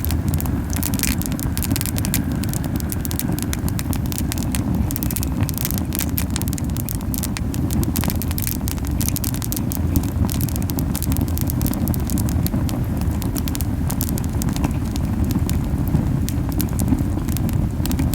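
Camellia-wood campfire crackling with many sharp pops, over a steady low puffing rumble of flames burning very hot.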